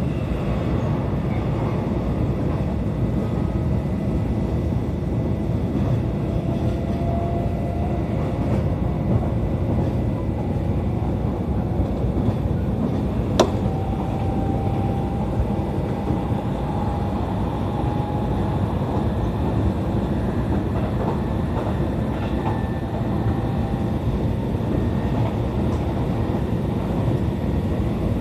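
Inside an E531-series electric train car running at speed: a steady rumble of wheels on rails. A faint whine slowly rises in pitch through the middle, and one sharp click comes about halfway through.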